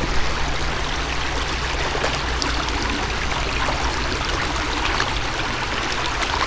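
Shallow creek water running steadily, an even rushing flow.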